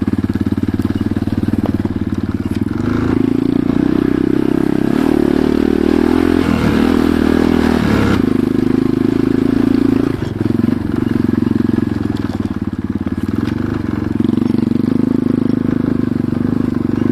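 Enduro motorcycle engine running under way, its note shifting with the throttle through the middle and briefly dropping off about ten seconds in.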